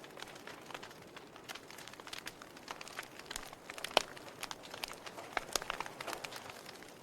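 Wood fire burning in a fireplace, crackling with irregular pops and snaps over a soft hiss; one louder pop about four seconds in.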